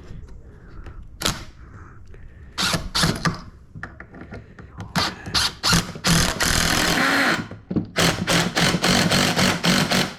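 Power drill run in short trigger bursts, then a steadier run of about a second, then a quick series of short pulses near the end, as it works into wood during workbench assembly.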